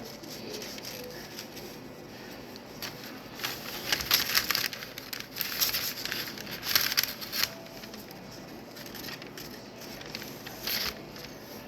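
Plastic wrap crinkling and rustling as it is handled and folded around food. There is a busy cluster of crackly rustles between about three and eight seconds in, and lighter scattered rustles and clicks around it.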